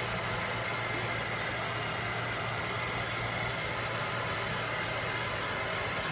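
A steady noise with a low hum and a faint, thin high whine, unchanging throughout, like a running motor or white-noise source.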